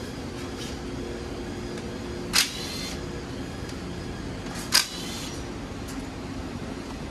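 Two short, sharp metal clinks with a brief ringing tail, about two and a half seconds apart, with a few fainter clicks, over a steady hum.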